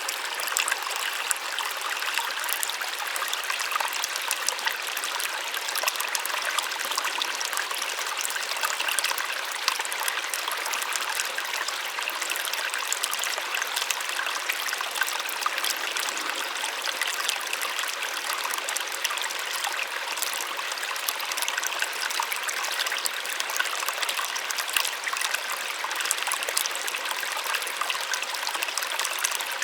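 Small waterfall splashing steadily: a bright, even rush of falling water with fine trickling detail and little low rumble.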